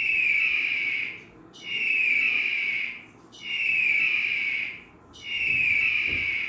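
Eagle calling: four long, high screeching calls, each starting sharply and falling slightly in pitch, repeated evenly about every second and a half.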